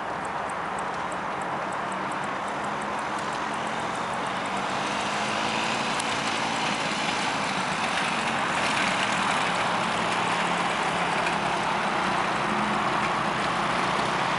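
Quad bike engine running steadily under a broad rushing noise, growing a little louder about a third of the way in.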